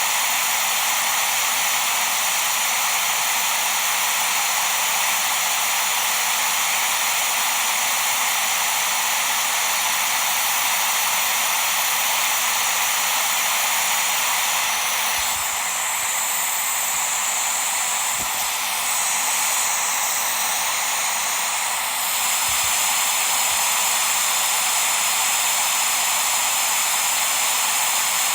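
Steady white-noise hiss for lulling a baby to sleep, bright and thin with almost no bass. Between about fifteen and twenty-two seconds in, the top of the hiss shifts slightly, then settles back.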